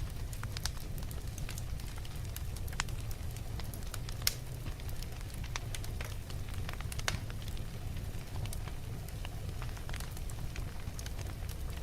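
Wood fire burning in a fireplace, crackling with irregular sharp pops over a steady low rumble; one pop about four seconds in is louder than the rest.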